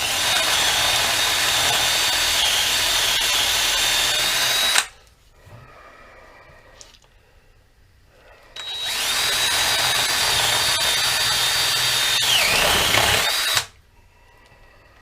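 Electric drill boring through a wooden walking stick with a spade bit, in two runs of about five seconds with a pause between. Near the end of the second run the motor's whine sags as the bit loads up, then it stops.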